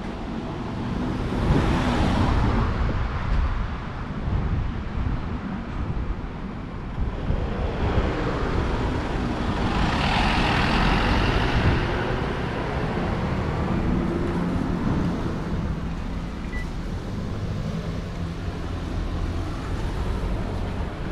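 Street traffic: vehicles passing close by over a steady low rumble, one about two seconds in and a longer, louder pass around ten seconds in.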